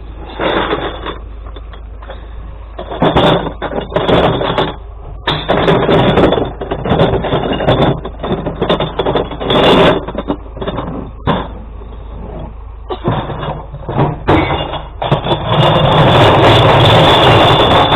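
Glass recycling truck running with a steady low rumble, broken by repeated loud, noisy clattering crashes a second or so long, and a longer continuous crash from about three-quarters of the way in.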